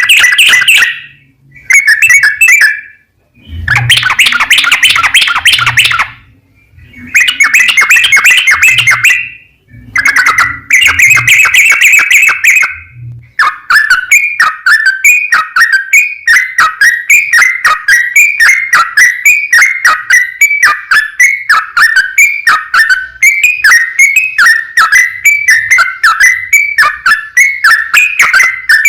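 Yellow-vented bulbul (trucukan) singing loudly. Several short bursts of chattering song come with brief pauses, then, about halfway, a long unbroken run of quick repeated notes: the long rolling song that trucukan keepers call "ropel panjang".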